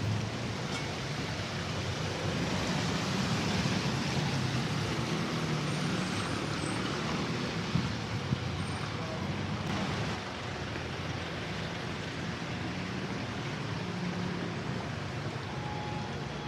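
Street traffic: motor vehicle engines running and passing close by, a steady low rumble over road noise. Two short sharp knocks about eight seconds in.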